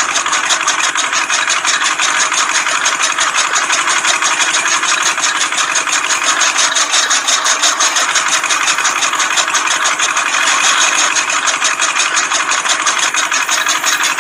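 Small motor of a DIY mini tractor machine running steadily, with a fast, even clatter.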